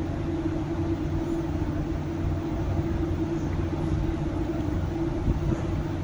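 Steady mechanical rumble with a constant droning hum, with no breaks or changes.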